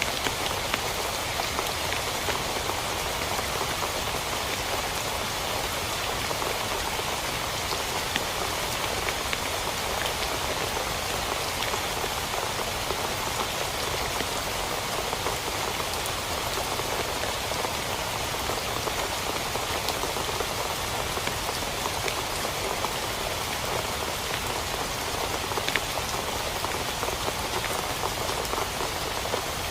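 Heavy rain falling steadily on a tent, with scattered louder single drops.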